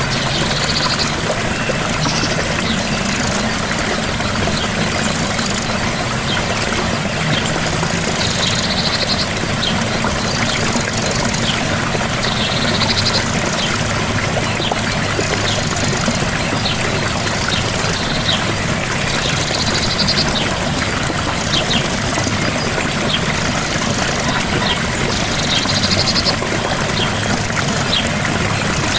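Gentle waterfall: a steady rush of falling water. A short high chirping call, from a bird or other small creature, recurs every few seconds over it.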